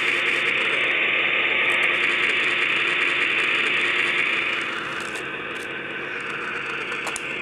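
Sound decoder of an HO-scale Proto 2000 RS-10 model diesel locomotive playing the engine running with its cooling fans through the model's small speaker: a steady hissing rush that drops in level a little under five seconds in.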